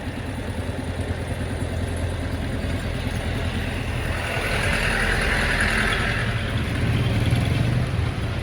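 A motor vehicle engine running steadily at idle, with a hiss rising for a couple of seconds about halfway through.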